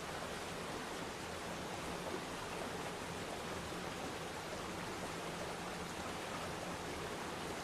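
Waterfall splashing into a pool: a steady, even rush of falling water.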